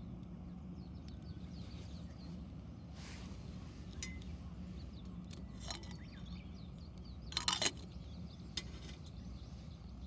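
Wood campfire crackling in a fire stand: a few sharp pops and snaps, the loudest a quick cluster about seven and a half seconds in, over a steady low rumble.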